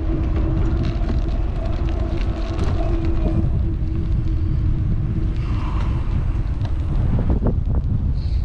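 Wind buffeting the microphone of a GoPro on a moving electric bike, a heavy steady rumble, with a steady hum for the first few seconds.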